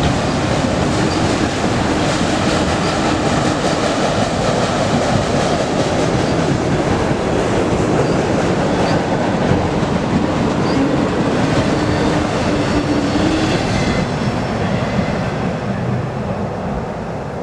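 Autorack freight cars of a passing train rolling by, steel wheels running steadily over the rails. The noise eases off over the last few seconds as the end of the train passes.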